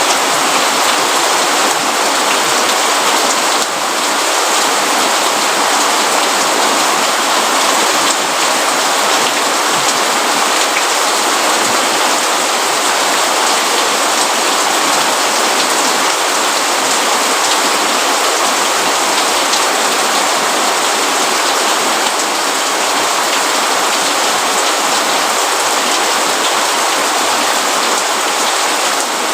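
Steady rain falling, an even hiss with scattered fine drop ticks, unbroken and without change.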